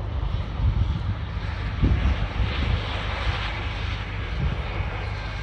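Jet engines of an Airbus A320-200 airliner running: a steady rush of jet noise over a heavy low rumble, swelling a little about halfway through.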